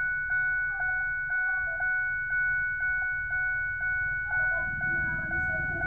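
A Ford Expedition's dashboard warning chime dinging about twice a second over a steady ringing tone.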